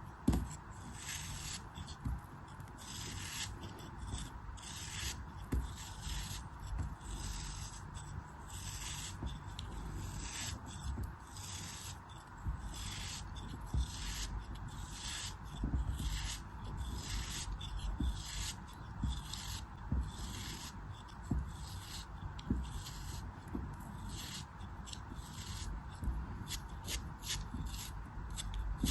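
Irregular gritty cutting and scraping strokes through a soft, crumbly ASMR material, one or two strokes a second, with a dry rubbing sound.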